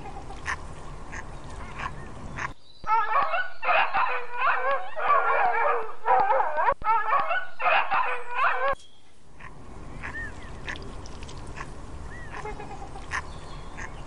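A dog giving a continuous run of high, wavering cries for about six seconds, starting and stopping abruptly. Before and after it comes quieter outdoor ambience with scattered faint chirps.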